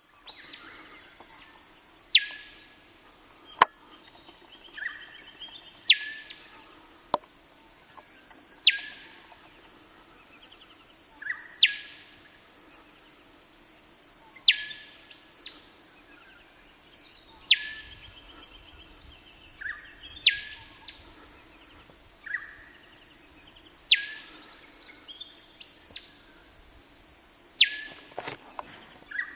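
Male rufous whistler singing the same phrase about every three seconds: a steady high whistle that swells in loudness, then ends in a sharp whip-like note sweeping steeply down.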